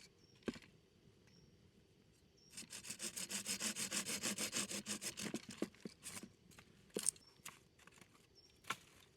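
Rapid rhythmic scraping, about nine strokes a second, for roughly three seconds, then a few sharp knocks.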